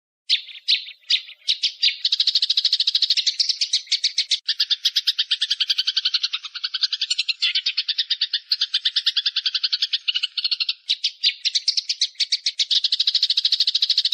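A small bird's rapid chattering call: a few spaced sharp notes, then an almost unbroken run of short high notes, about seven or eight a second, changing pattern twice.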